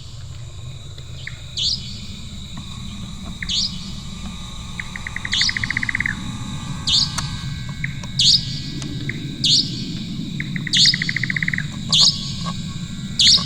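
Indian nightjar calling: sharp, harsh notes repeated about every second and a half, with two quick rattling trains of about a dozen notes, each lasting about a second, near the start and again about two thirds of the way in. A low, steady background noise runs underneath.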